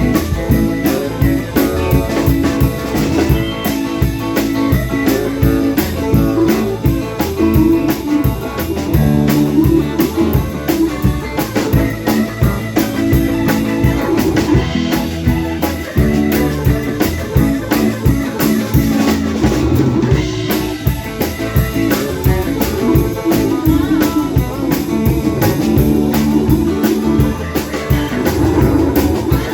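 Rock music played on guitar and drum kit, with the drums keeping a steady beat.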